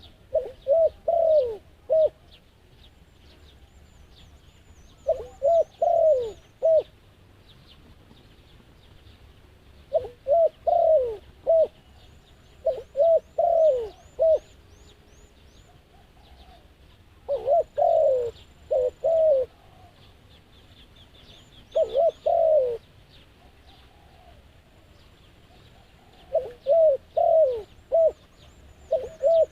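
Doves cooing in repeated phrases of three to five short, falling coos, a new phrase every few seconds. Faint high chirps of small birds sound in the background.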